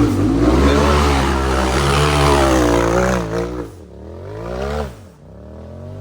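Side-by-side UTV engine revving hard with a rush of noise over it for about three and a half seconds, as it works at a rock climb. Then it drops off into two shorter throttle blips that rise and fall in pitch.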